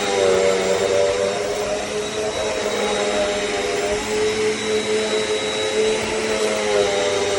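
Eureka NEU10AE5 AirSpeed bagless upright vacuum cleaner running steadily, a whooshing suction noise over its motor hum, which shifts slightly in pitch near the start and again near the end.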